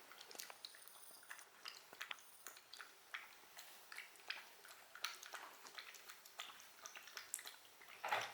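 Close-miked chewing and biting of food: a faint run of soft, wet clicks and crunches, with a louder noisy rustle near the end.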